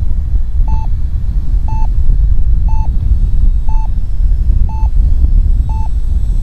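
RC radio transmitter's timer beeping, a short mid-pitched beep once a second, six times, over heavy wind rumble on the microphone.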